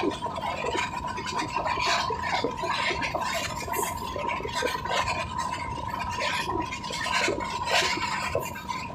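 Moving passenger train heard from inside the coach: a steady clattering rattle of wheels on the rails, with a thin, steady high-pitched whine running through it.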